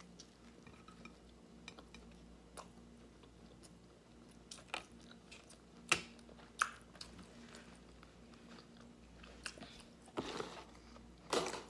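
A person biting into a chicken sandwich and chewing with soft, faint mouth clicks and smacks, with a few sharper clicks around the middle and two short louder noises near the end. A faint steady hum runs underneath.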